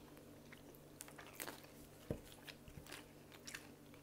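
Close-up chewing and biting of homemade pizza crust, faint and wet, with soft crunches and mouth clicks at irregular moments and a sharper knock about two seconds in, over a faint steady hum.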